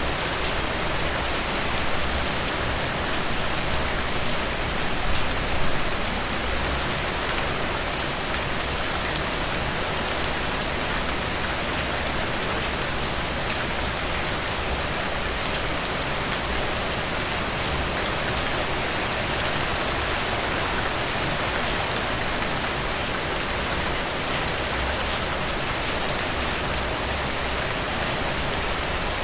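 Heavy rain falling steadily, with a dense patter of drops on surfaces.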